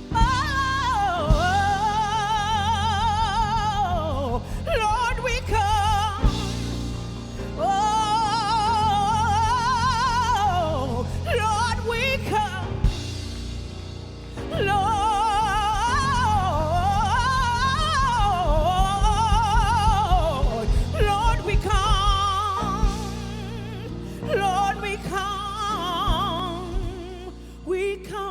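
Gospel singing: a solo voice holds long notes with a wide vibrato and slides through runs, with no clear words, over steady instrumental accompaniment. The vocal drops out briefly about fourteen seconds in, then comes back in.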